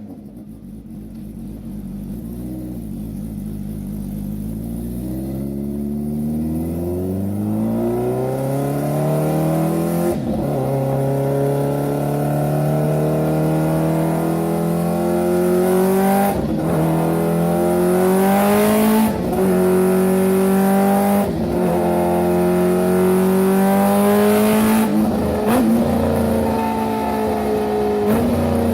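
A high-revving vehicle engine accelerating hard, growing louder from quiet at the start. Its pitch climbs steadily and then drops sharply at each of about five gear upshifts.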